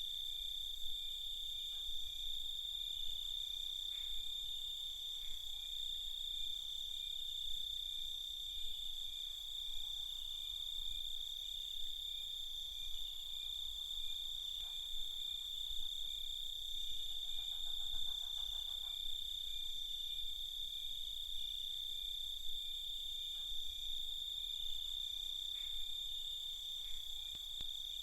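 Crickets calling at night: a steady, continuous high trill, with other insects chirping at a slower, regular beat beneath it.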